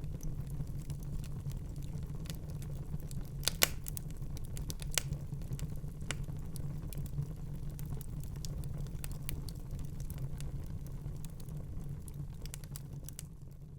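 Wood fire crackling in a fireplace: a steady low rumble of flames with scattered sharp pops and snaps, the loudest pop about three and a half seconds in. It begins to fade near the end.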